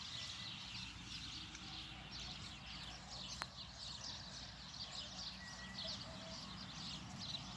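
Faint chirping of small birds in the countryside, many short high calls, with a single sharp click about three and a half seconds in.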